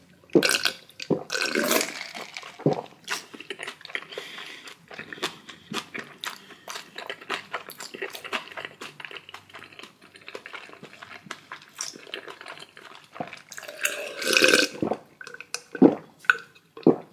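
Close-miked eating sounds: a person chewing food with wet mouth clicks and smacks, with louder wet, slurping-like stretches about two seconds in and again near the end.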